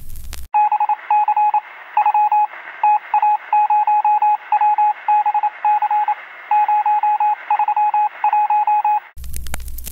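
Electronic beep signal heard as if over a radio: a single steady tone keyed on and off in short, uneven groups of pips, like Morse code, over a narrow band of hiss. It starts about half a second in, after a click that ends the jazz record, and stops abruptly near the end.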